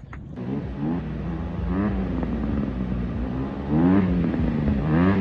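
Dirt bike engine running and revving up three times, its pitch rising with each pull of the throttle.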